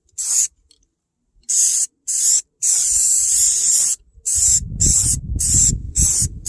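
Aerosol spray paint can spraying gloss black in bursts: short squirts at first, one longer pass of over a second in the middle, then quick short bursts about three a second. Wind rumbles on the microphone from about four seconds in.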